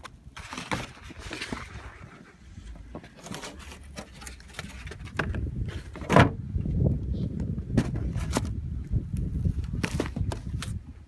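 Car driving through a blizzard: an uneven low rumble that grows louder about five seconds in, with scattered clicks and knocks.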